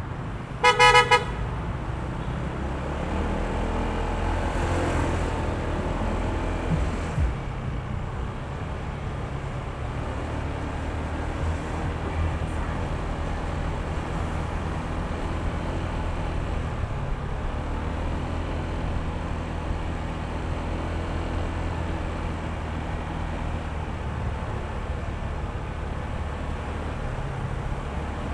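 A vehicle horn gives a short double toot about a second in, over the steady running of a Honda ADV160 scooter's single-cylinder engine and road noise, which swells a little a few seconds later.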